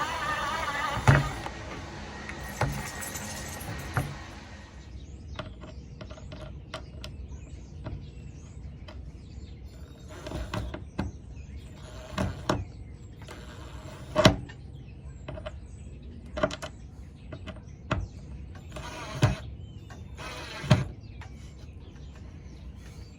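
Cordless drill/driver running for the first few seconds, backing out a screw, followed by a string of scattered knocks and clicks.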